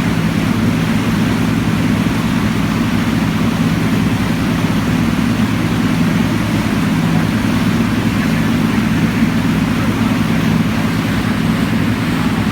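Outboard motor running steadily under load, a constant low engine note with rapid even firing and a wash of wind and water noise.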